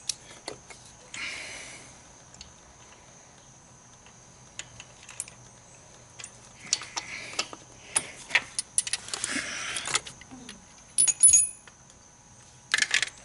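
Metal hand tools clinking and clicking as a spark plug socket, extensions and a swivel adapter are worked in an engine's spark plug well, with a few short scraping rustles. A louder metallic clatter comes near the end.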